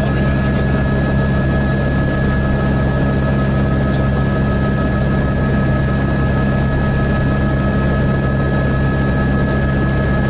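Helicopter in flight heard from on board: a steady, unchanging drone of engine and rotor, with a thin high whine held over it.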